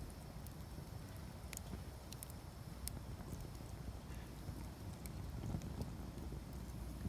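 Campfire of dense, hard peach wood burning, with scattered sharp crackles and pops over a low steady rumble.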